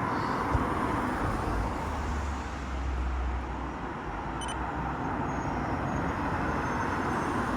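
Bus engine running close by amid road traffic noise, with a low engine drone that swells for a couple of seconds about a third of the way in.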